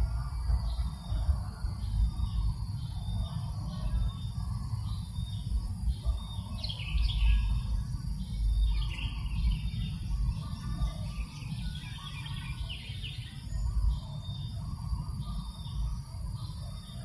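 Birds calling outdoors over wind rumbling on the microphone. A high, short call repeats about once a second throughout, and a busier run of chirping comes in from about six seconds in to about thirteen seconds.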